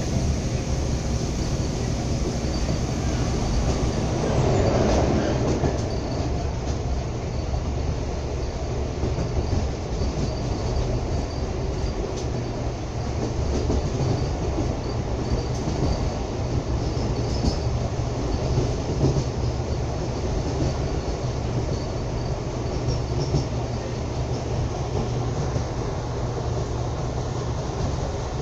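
Train running at speed, heard from inside a carriage: a steady rumble of wheels on rail with faint clicks, swelling briefly about five seconds in.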